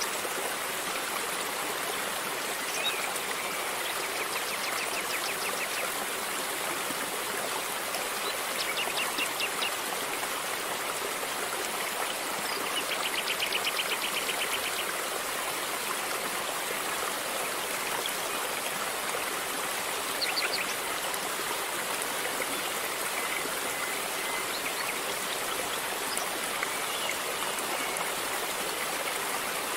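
River water flowing steadily. A few short, high, rapid trills come in over it several times.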